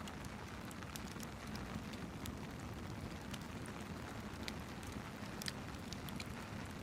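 Rain and a crackling fireplace together: a steady hiss and low rumble with scattered sharp pops and ticks.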